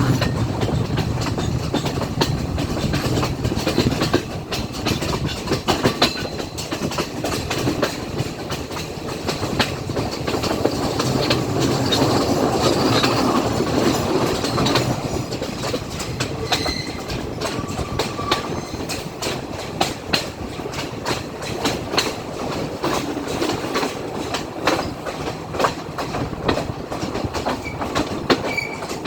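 Class S14 diesel multiple unit running along the track: a steady rumble with many sharp clicks of the wheels passing over rail joints.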